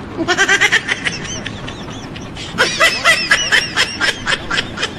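A person laughing in quick, high-pitched bursts, in two bouts: briefly near the start, then a longer run from about halfway through.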